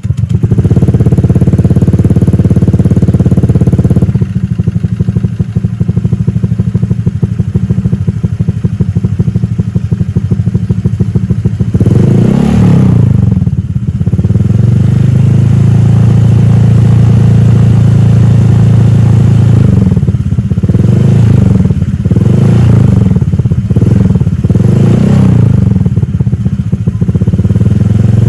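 Honda Vario 125 scooter's single-cylinder four-stroke engine running through a short full-stainless PDW Racing header pipe and silencer. It runs a little faster for the first few seconds and then settles to idle. It is revved up and back down once about twelve seconds in, then blipped several times in quick succession near the end.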